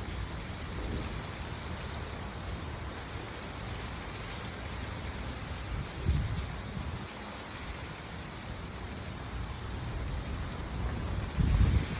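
Steady rain falling in a thunderstorm, with two short low rumbles of thunder: one about six seconds in and a louder one near the end.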